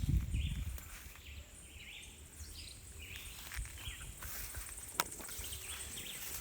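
Wild birds chirping and calling around the listener in short, scattered high notes over outdoor background noise, with a low rumble on the microphone in the first half-second and one sharp click about five seconds in.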